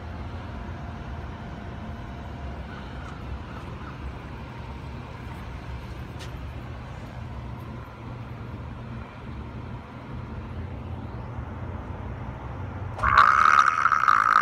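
Car engine running, heard from inside the cabin as a steady low rumble. Near the end a much louder, higher-pitched sound cuts in.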